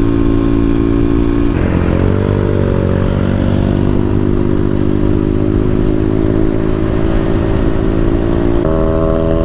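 Motorcycle engine running steadily at a held speed. Its pitch changes about a second and a half in and steps up near the end.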